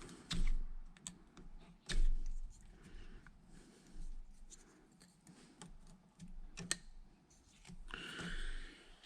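Scattered light clicks, taps and scrapes of hand tools and metal cable parts being handled, with two louder knocks, one just after the start and one about two seconds in.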